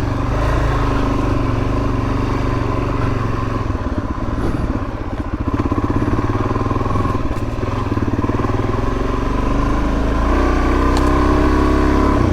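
A 2019 Suzuki DR-Z400S's single-cylinder four-stroke engine running as the dirt bike is ridden, its note getting a little louder and higher near the end.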